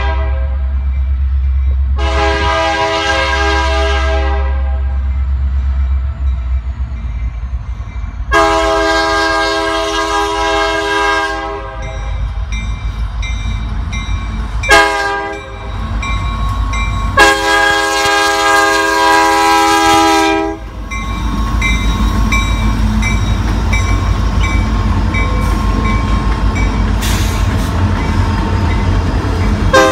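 Diesel freight locomotive horn blowing long blasts with one short one, ending long-short-long: the grade-crossing signal as the train nears. After the last blast the locomotives pass close by with a steady diesel rumble and the clatter of wheels on the rails.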